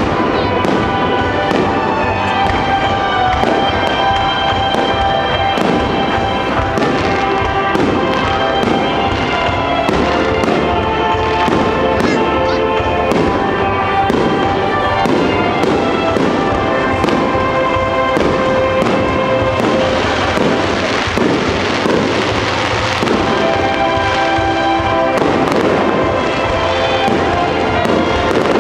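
Star mine fireworks barrage: a steady run of sharp bangs from bursting shells, one close after another, with music playing throughout.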